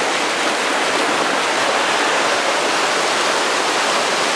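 Creek water rushing and cascading over rocks in a steady, loud, unbroken rush.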